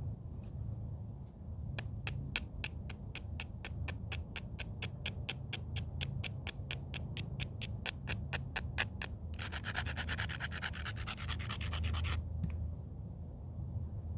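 Flint edge being abraded with a stone: a quick run of sharp scraping clicks, about five a second, then a steady grinding rub for a few seconds before it stops, dulling the edge to prepare it for flaking.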